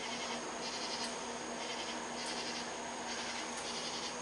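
A chorus of night insects calling in a steady rhythm, bursts of high chirring about every half second, over a steady electrical hum.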